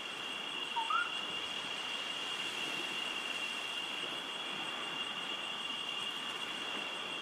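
Insects trilling steadily in a high, even chorus, with one short bird call rising and falling about a second in.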